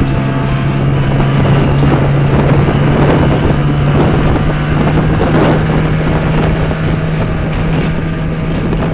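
Boat engine running steadily underway, its low hum edging slightly higher in pitch about halfway through, with wind buffeting the microphone.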